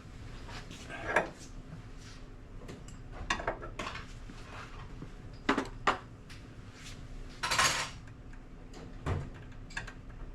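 Scattered metal clinks and taps of hand tools and steel suspension parts as holes are lined up and a cotter pin is worked in by hand, with a longer metallic scrape about seven and a half seconds in.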